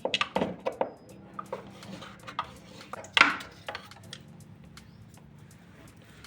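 Clattering knocks of hard household items being handled: a quick cluster in the first second, a few lighter taps, and one loudest knock about three seconds in.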